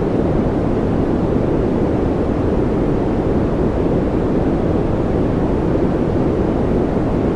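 Steady white-noise track: an even, unbroken rush that does not change, heavy in the low and middle range and thin at the top, so it comes across as a deep, muffled hiss.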